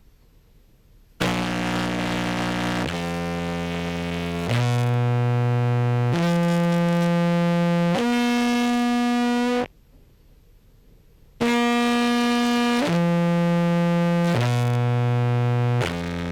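Contrabass clarinet, amplified through a pickup and a fuzz-and-compression pedal chain, playing a run of five held notes. After a short pause it plays four more held notes, the later ones stepping down in pitch. Each note is buzzy and thick with overtones, and starts and cuts off abruptly.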